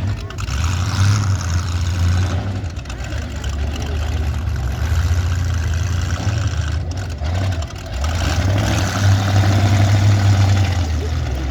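Demolition derby car engines running, a loud deep steady drone with some rises and falls in level.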